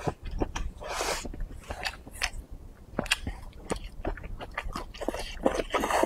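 Close-miked chewing and mouth noises of a man eating rice and spicy maocai: a steady run of short wet clicks and smacks, with a couple of longer breathy slurps about a second in and near the end.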